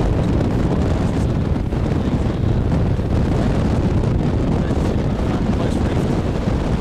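Strong wind buffeting the microphone aboard a sailing yacht under way: a loud, steady low rumble.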